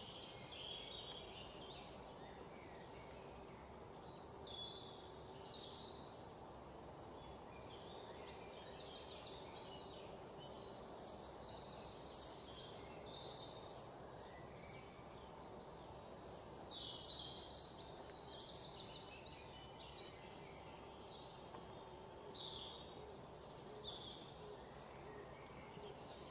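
Wild birds chirping and trilling off and on, faint, over a low steady background noise.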